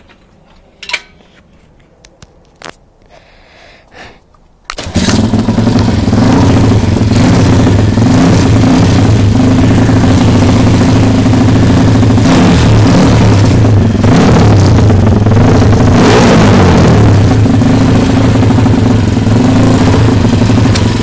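A few knocks, then the Evo 140 pit bike's small single-cylinder engine, fitted with an upgraded exhaust, fires about five seconds in and keeps running loudly and steadily.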